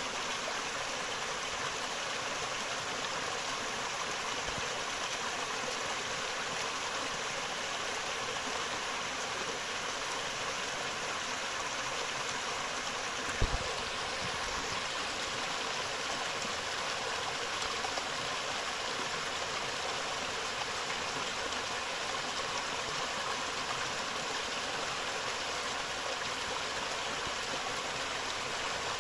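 Forest river flowing, a steady rush of water. A brief low thump about halfway through.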